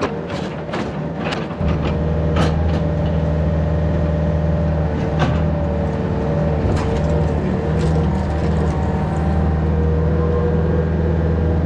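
Yanmar VIO50 mini excavator's diesel engine running under load, louder from about a second and a half in, with a wavering hydraulic whine and a few sharp metal knocks, most of them near the start.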